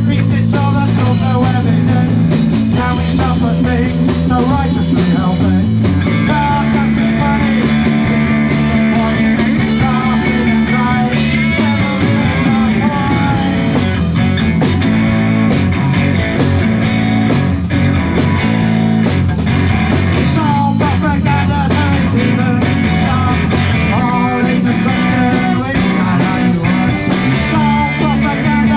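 Live rock band playing loud: electric guitar lead, bass and drums with percussion, recorded in a small venue.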